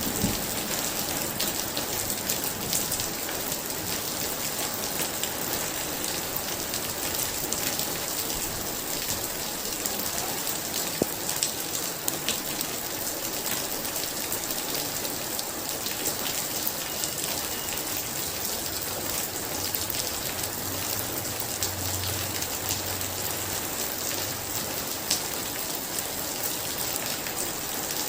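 Very heavy rain falling steadily, a dense hiss with many close drop impacts. A faint low rumble comes about three-quarters of the way through.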